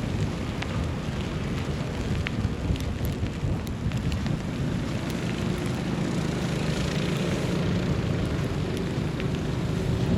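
City street ambience in a snowstorm: a steady low rumble of wind and distant traffic, with scattered faint ticks. A hiss swells and fades around the middle.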